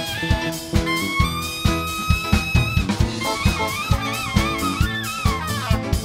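Jazzy band music: a horn melody, saxophone or trumpet, with bending notes over a steady drum-kit beat.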